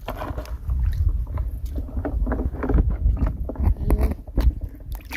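Water sloshing and splashing in irregular bursts, with a heavy low wind rumble on the microphone.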